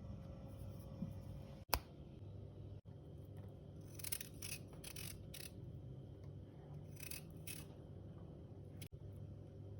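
Kitchen handling sounds: a single sharp click, then short scraping strokes in two groups, about four in a row and then two more.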